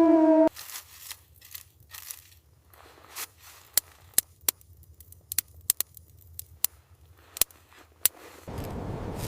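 A wolf howl, sliding down in pitch, cuts off sharply about half a second in. Then come sparse, sharp crackles and pops, like a wood fire burning, over a faint low hum. Near the end a steady rush of wind noise comes in.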